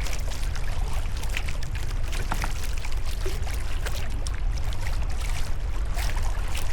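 Sea kayak paddle strokes splashing and water trickling off the blades, with chop slapping around the hull. A steady low wind rumble runs on the microphone underneath.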